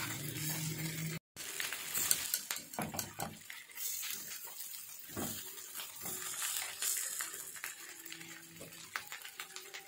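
Chicken leg pieces sizzling in butter on a hot tawa griddle, with metal tongs and a spatula clicking and scraping against the griddle as the pieces are turned. The sound drops out completely for a moment about a second in.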